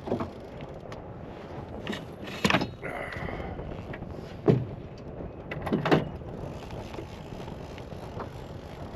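A few sharp knocks and clunks, the loudest about two and a half and six seconds in, from something being handled in a fishing boat, over a steady hiss of wind.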